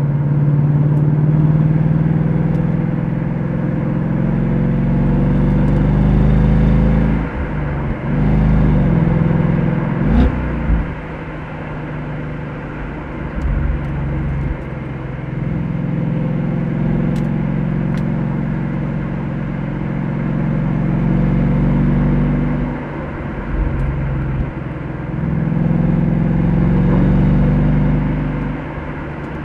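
Ford Mustang GT's V8 engine and exhaust driving under load, its note rising and falling with the throttle. It revs up and down twice about eight to ten seconds in, and there are quieter stretches where the throttle is eased off.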